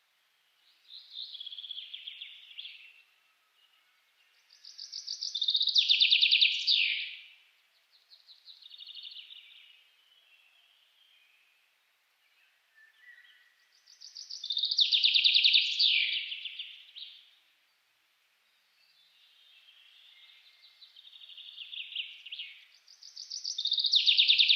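A songbird singing long phrases of rapid trilled notes every few seconds. Quieter phrases alternate with louder ones, and the loud ones swell over about two seconds.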